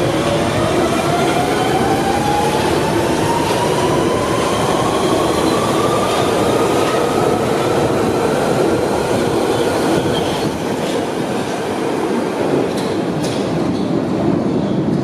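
London Underground 1992 stock train's traction motors whining as the train pulls away and accelerates, the whine rising steadily in pitch for about ten seconds. The wheels rumble on the rails throughout, with a few sharp clicks over rail joints near the end.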